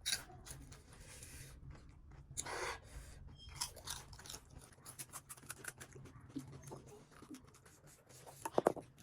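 Chewing and crunching of crisp pani puri shells, a rapid scatter of short, sharp crackles.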